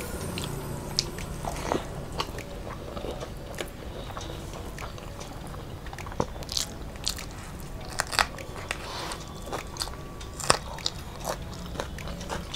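Close-miked eating sounds of people eating rice and curry by hand: chewing and smacking mouth noises with irregular sharp clicks.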